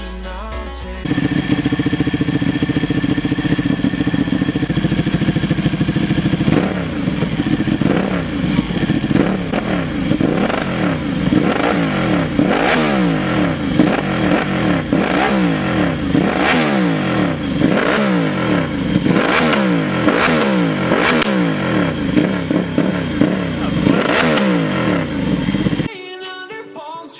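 Superbike exhaust: the engine runs at a steady note for a few seconds, then is revved up and down over and over in quick, repeated sweeps.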